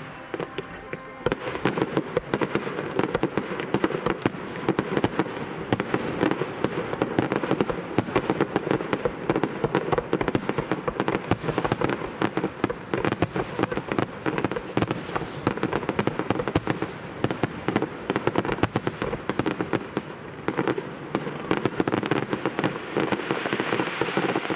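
Fireworks display: a dense, continuous crackle of many small reports, thickening about a second in, like a barrage of crackling shells and firecracker-type effects bursting together.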